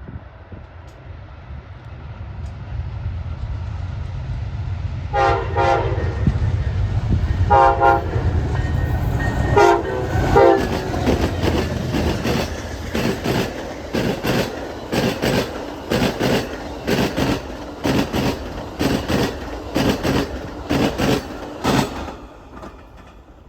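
Amtrak passenger train approaching and passing: a low rumble builds, the horn sounds four blasts, then the wheels beat steadily over rail joints at about two clicks a second until the train has gone by.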